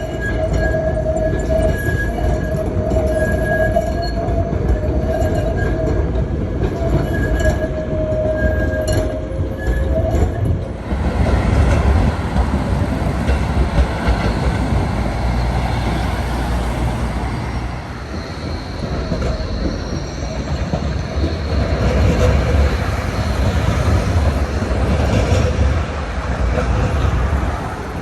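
Tram wheels squealing on a curved track, a steady high singing tone over a rumble, for about the first ten seconds. The squeal then gives way to a louder, lower rumble of wheels running along the rails.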